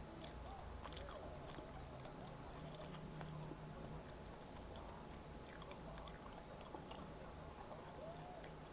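Close-up sounds of a person eating: chewing with wet mouth sounds and clusters of sharp crisp clicks about a second in and again around six seconds.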